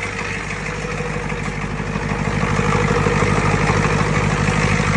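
Ford/International 6.9-litre IDI V8 diesel running steadily after a cold start, with an even diesel clatter that grows a little louder about two seconds in. It keeps running because no shutoff switch is fitted.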